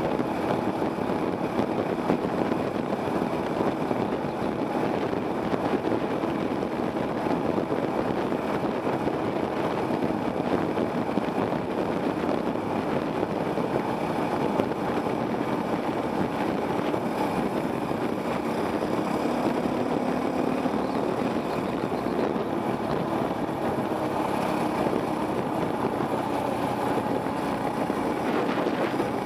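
Off-road dirt bike engine running steadily under way, heard from a helmet camera.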